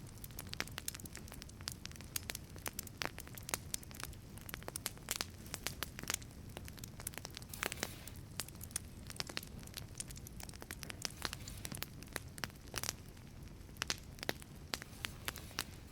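Wood fire burning in a wood-fired pizza oven, crackling with many irregular sharp pops and snaps over a steady low rush of flame.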